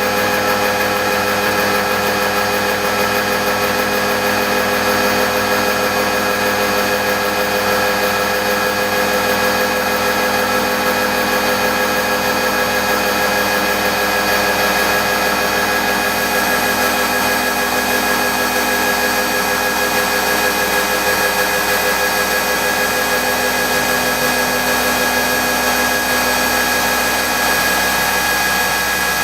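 CNC machine milling a gear with an indexable-insert gear milling cutter, a steady machine whine with a few constant tones over the cutting noise.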